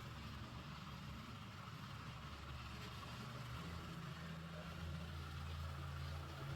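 Faint, steady low hum of an engine running at idle.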